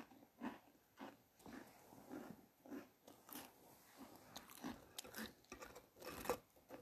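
A person chewing crisp food with the mouth close to the microphone: a faint, steady run of small crunches, about two to three a second.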